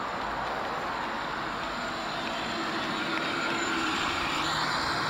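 Road traffic passing on a busy bypass: a steady rush of tyre and engine noise that grows a little louder near the end as a vehicle comes closer.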